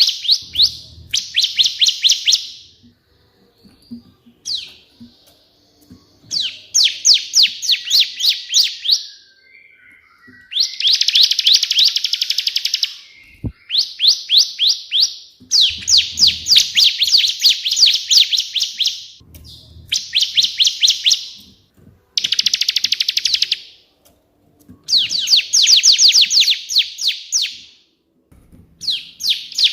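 Bar-winged prinia (ciblek) singing vigorously in the rapid-fire 'tembakan' style: bursts of fast, high, evenly repeated notes, each burst lasting one to three seconds, with short pauses between them.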